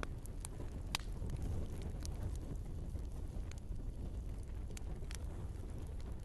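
Wood fire burning in a fireplace: a steady low rumble of the flames with scattered sharp crackles and pops from the burning logs, the loudest pop about a second in.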